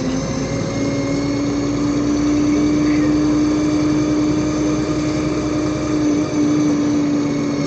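LiAZ 5292.65 city bus running between stops, heard from on board: its engine and drivetrain give a steady drone with a steady whine.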